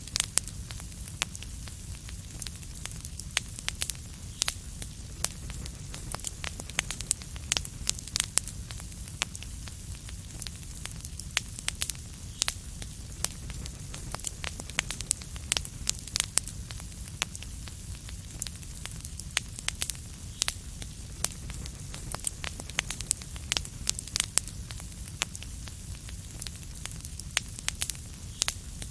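Wood fire crackling: a steady low rumble and hiss with frequent irregular sharp pops and snaps.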